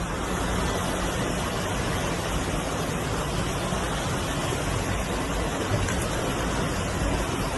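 Floodwater rushing in a steady, dense stream with no let-up.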